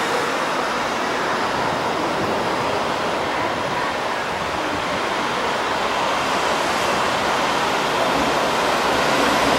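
A JR Freight EF510 electric locomotive and its container train approaching on a curve: a steady rushing noise of the train running along the rails, growing a little louder near the end.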